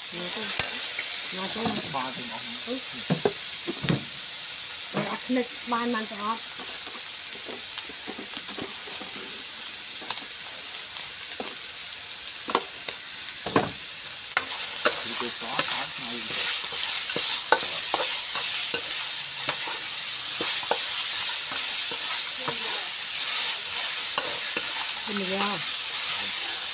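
Chicken in a green herb paste sizzling in an oiled wok, stirred with a metal spatula that scrapes and clicks against the pan. The sizzle grows louder about halfway through.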